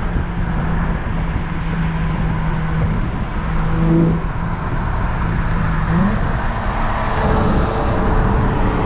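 Acura TL SH-AWD's 3.7-litre J37 V6, with primary cats deleted and a J-pipe, pulling hard under acceleration, heard from inside the cabin over heavy road noise. The engine drone holds steady, then rises in pitch about six seconds in.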